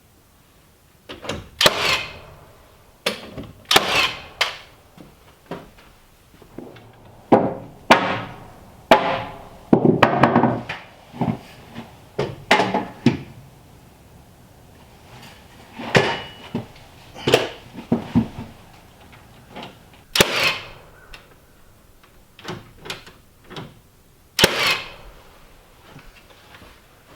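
A series of irregular knocks and bangs, about fifteen spread over the stretch with quiet gaps between them, from framing work on 2x4 wall lumber.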